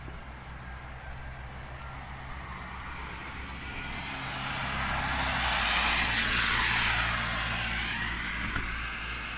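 A car passing by on the road, its tyre and engine noise rising to a peak past the halfway point and then fading away, over a steady low hum.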